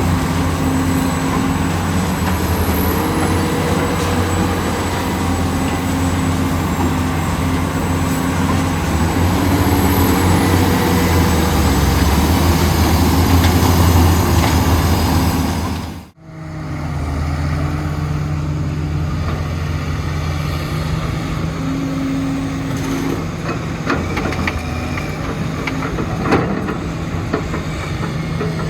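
Heavy diesel construction machinery running steadily, a deep engine drone under work noise. It cuts out abruptly about two-thirds of the way through, and another engine picks up at once.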